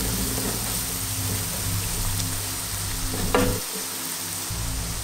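Chopped onions, garlic and ginger frying in hot oil in a pan, a steady sizzle, while a spatula stirs them. A sharper knock of the spatula against the pan comes a little over three seconds in.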